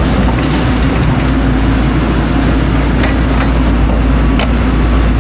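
A large engine running steadily with a low rumble, with a few light clicks and knocks scattered through it.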